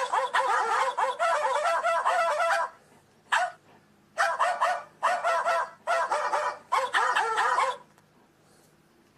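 A German Shepherd whining and yipping in quick, wavering bouts: one long stretch, a brief yip, then several shorter bursts. It falls silent about eight seconds in.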